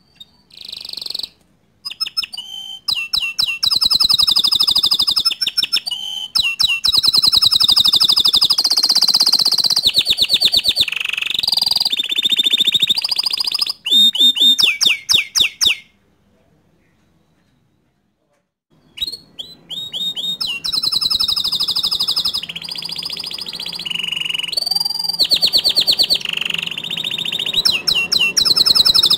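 Green domestic canary singing long, rapid trills and quickly repeated notes, falling silent for about three seconds around the middle before starting up again.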